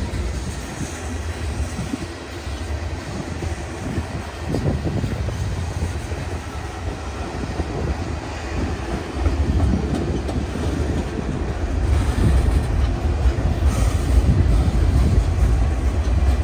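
Freight cars (tank cars, an autorack and boxcars) rolling past: a steady rumble and clatter of steel wheels on rail that grows louder in the second half.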